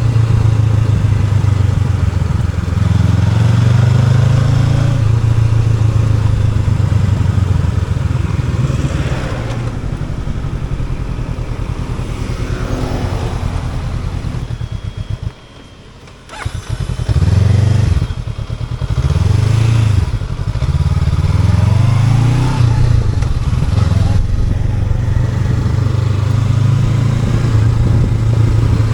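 Honda NX500's parallel-twin engine pulling steadily while riding, with a sudden brief drop in sound just past halfway. The engine note then rises and falls several times as the throttle and gears are worked, before settling back to a steady pull.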